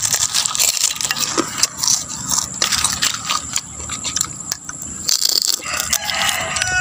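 Crunching of beef chicharon, crisp fried beef skin, being bitten and chewed: a dense run of sharp cracks and crackles.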